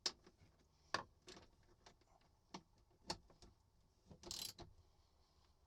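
Ratchet wrench with a half-inch socket clicking faintly in short, irregular strokes as a nut on a trailer battery installation is snugged up, with a brief quicker run of clicks about four seconds in.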